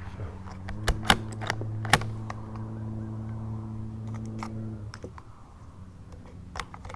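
Sharp metallic clicks of a Tikka T1x .22 LR bolt-action rifle being handled, a quick cluster of them just after a shot as the bolt is cycled, with a few more clicks near the end. A steady low hum runs underneath and stops about five seconds in.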